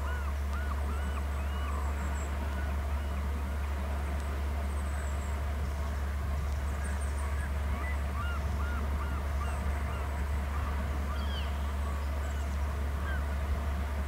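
Birds calling: short rising-and-falling calls in quick series, bunched in the first couple of seconds and again around eight to nine seconds in, with fainter high chirps above them. A steady low hum runs beneath and is the loudest thing.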